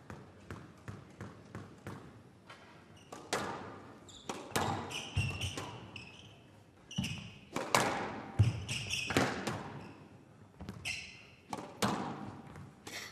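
Squash rally: the ball cracks off rackets and walls in an irregular run of sharp impacts, with short high squeaks of court shoes on the wooden floor between strikes.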